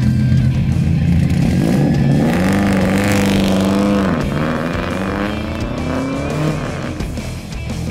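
Subaru WRX STI's turbocharged flat-four engine revving loudly through a 5-inch straight-pipe exhaust with no muffler. The pitch rises about two seconds in and holds, drops briefly, then climbs again before easing off near the end.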